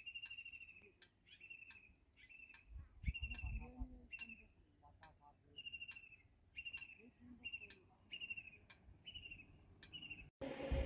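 A bird calling over and over, a short, slightly falling note about one and a half times a second, with sharp ticks in between. A low rumble comes about three to four seconds in, and near the end the sound cuts abruptly to a steady hum.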